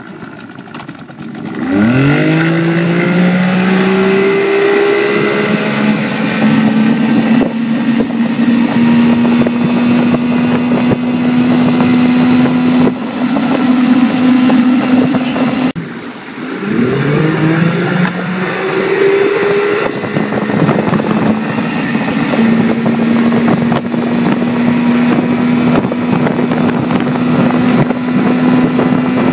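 1995 Johnson 70 hp two-stroke outboard driving the boat. It revs up steeply about two seconds in and settles to a steady drone. Near the middle it drops off, then revs up again and holds steady.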